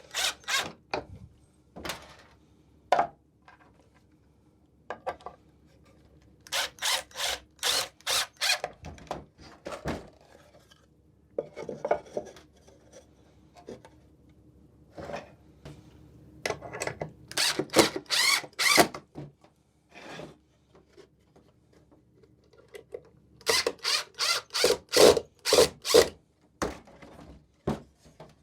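A hand tool working wood in four spells of quick, evenly spaced rasping strokes, each spell a few seconds long, with quieter knocks and handling of the wooden pieces in between.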